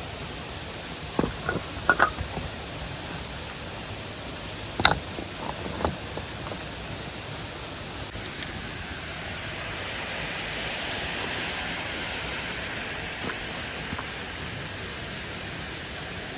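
Steady rushing of a mountain stream, with a few sharp clicks in the first six seconds and a swell of hiss in the second half.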